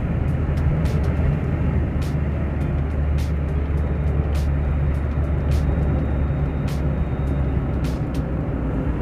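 Car driving on a rough dirt road, heard from inside the cabin: a steady low engine and road rumble, with frequent short clicks and knocks scattered throughout.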